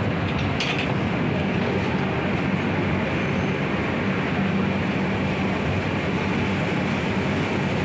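Steady running noise of an Indian passenger train heard from inside the coach: wheels rumbling on the rails, with a steady low hum beneath, as it runs through a station without stopping.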